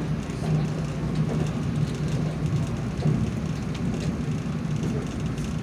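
Manila LRT-2 light-rail car running at speed, heard from inside the car: a steady rumble of wheels on rail with a constant low hum underneath.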